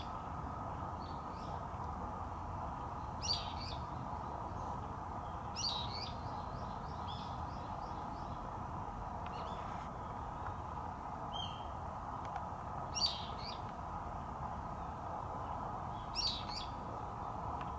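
A wild bird calling in short high phrases every few seconds, over a steady background hum.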